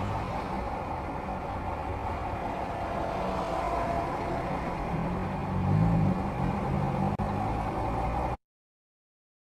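Car engine idling in stopped traffic, heard through a dashcam, swelling briefly about five and a half seconds in. The sound cuts out to total silence a little after eight seconds in.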